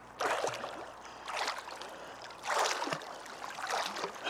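Water sloshing and splashing in four short bursts about a second apart, as a person in the water moves a capsized kayak along.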